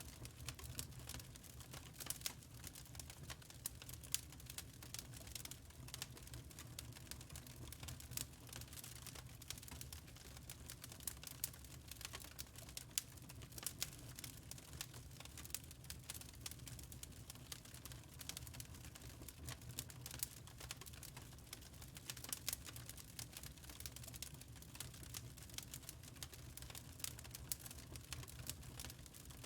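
Wood fire crackling steadily in a fireplace: a dense scatter of small irregular pops and snaps over a low, even rumble of flame.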